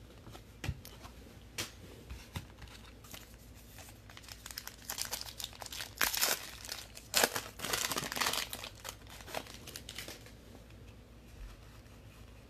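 Plastic foil wrapper of a trading card pack being torn open and crinkled. There are a few scattered crackles first, then a busier stretch of tearing and crinkling through the middle that is loudest around six to eight seconds in.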